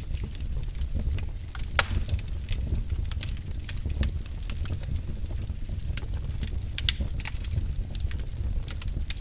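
Wood fire burning in a fireplace, a steady low rumble of flames with irregular crackles and occasional sharper pops from the burning logs.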